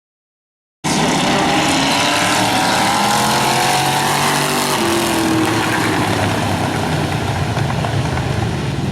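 Several demo race cars' engines running hard together on an oval track, their pitches rising and falling as they accelerate and lift. The sound cuts in suddenly just under a second in.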